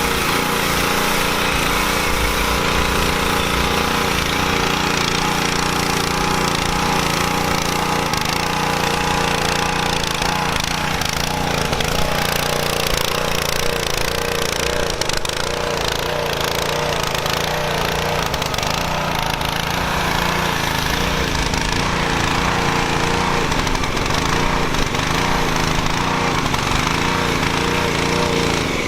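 Small gasoline engine of a power washer running steadily at full speed, with the hiss of the water spray over it. It cuts out abruptly at the very end: the washer has run out of gas.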